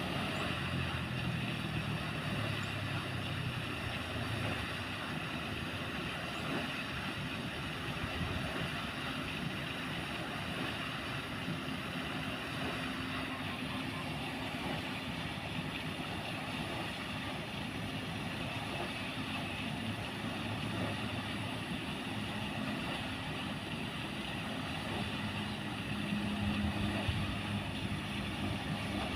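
Paddle-wheel water aerator running: a steady churning and splashing of water with a low motor hum that swells and fades.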